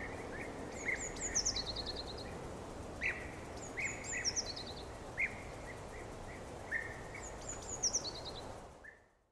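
Forest ambience of birds calling over a steady background hiss. One bird repeats a high phrase that drops into a quick run of notes three times, with shorter chirps between, and the whole fades out near the end.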